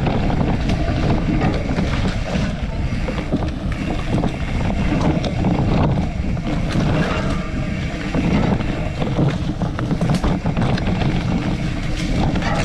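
Wind buffeting the microphone on a moving bicycle, a steady low rumble with scattered short rattles and knocks.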